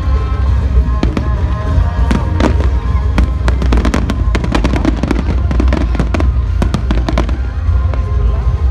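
Fireworks display: many sharp bangs and crackles in quick succession, thickest through the middle and thinning out near the end, over a continuous low rumble. Music plays along with them.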